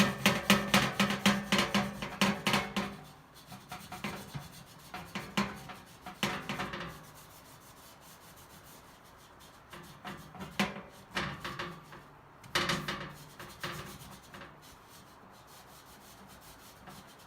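Scrubbing a stainless steel surface coated with scouring powder, a pad rasping back and forth. Fast, steady strokes for about three seconds give way to shorter bouts of scrubbing with pauses between them.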